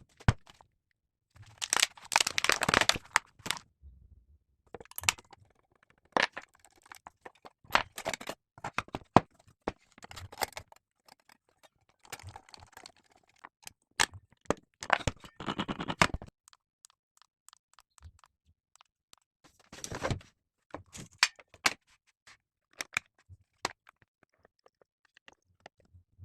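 Intermittent handling noises: sharp clicks and knocks mixed with short bursts of scraping and rustling, with quiet gaps in between and no motor running.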